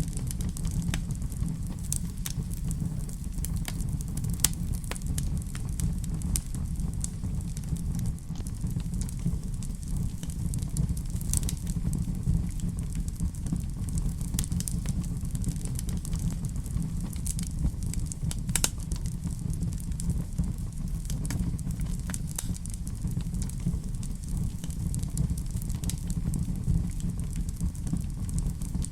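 Fireplace fire crackling, with irregular sharp pops and snaps scattered throughout over a steady low rumble.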